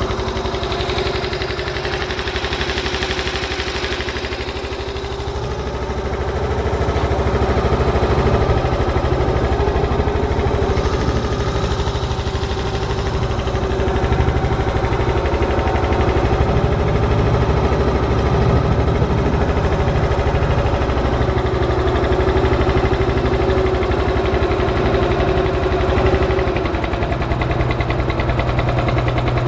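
Ermak-S15 long-tail shallow-water boat motor running under way, a steady, fast-firing small engine; it eases off slightly about four seconds in, then picks up and runs on evenly.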